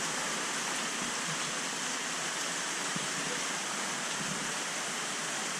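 Steady rushing of water flowing into a large koi pond, an even hiss without any rhythm.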